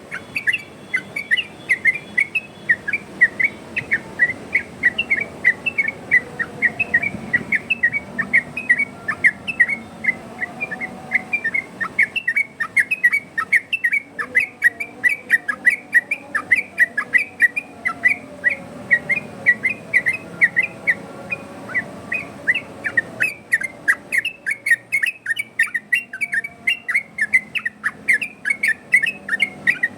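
Sooty-headed bulbul (trucukan) singing in the rapid 'ropel' style: a loud, continuous string of short, clear whistled notes, about four or five a second, with a few brief pauses. It is a lure song meant to draw answers from other trucukan.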